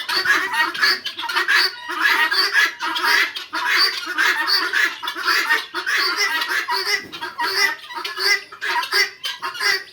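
A large flock of chickens clucking and calling all at once, many overlapping voices with no break.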